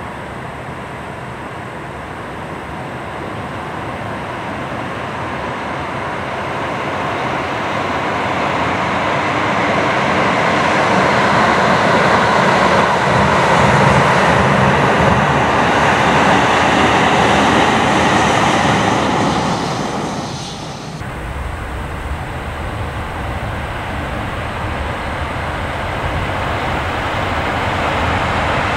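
Train rumbling across a steel truss railway bridge, building over about twelve seconds to a loud, steady roar and then easing. About twenty-one seconds in the sound breaks off suddenly and another train's rumble on the bridge builds again toward the end.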